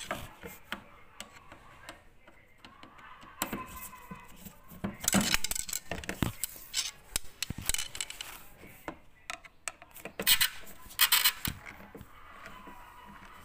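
Hard parts being handled: irregular clicks and knocks with short bursts of scraping and rustling, loudest about five seconds in and again about ten seconds in.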